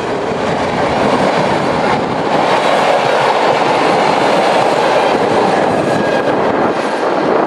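Electric multiple-unit passenger train passing close by: a loud, steady noise of its wheels running on the rails, swelling in over the first second.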